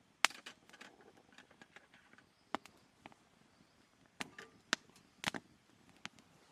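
Campfire crackling: irregular sharp pops and snaps of burning wood, the loudest just after the start and a cluster of strong ones past the middle.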